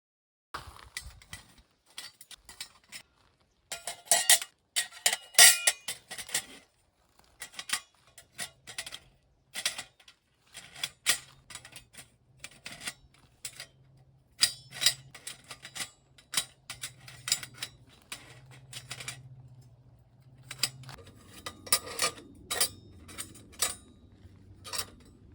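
Metal parts of a campfire grill clinking and clanking irregularly as they are handled and fitted together during assembly, loudest and busiest about four to six seconds in.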